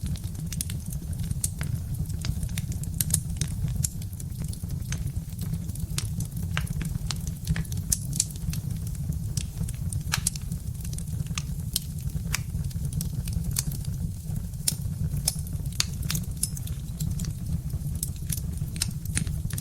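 Birch-log wood fire crackling: irregular sharp pops and snaps, several a second, over a steady low rumble.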